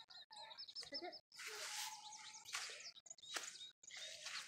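Small birds chirping: a quick run of about five short high chirps near the start, then scattered chirps, with a brief rush of noise in the middle.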